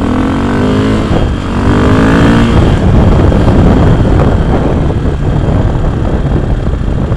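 KTM dirt bike engine accelerating from a pull-away, its pitch rising twice with a gear change in between. From about two and a half seconds in, a louder, steady rush of wind and engine noise takes over as speed builds.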